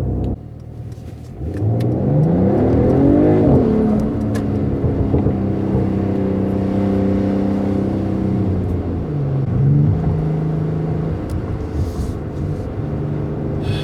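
Mercedes-AMG GT 43 4-door coupé's turbocharged 3.0-litre straight-six, performance exhaust switched on, accelerating: the engine note climbs steeply for about two seconds, then holds steady. About nine seconds in the pitch dips briefly and comes back up, then it runs on at a steady pitch.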